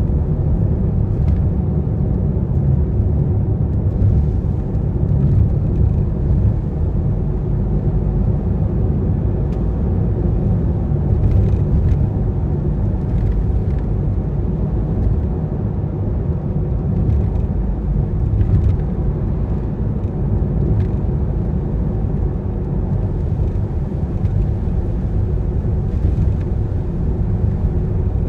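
Steady low rumble of a car driving on rain-wet roads, road and engine noise with a few faint ticks.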